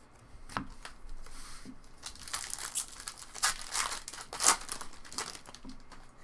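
Foil trading-card pack wrapper being torn open and crinkled: a run of short, sharp crackles, thickest from about two seconds in until shortly before the end.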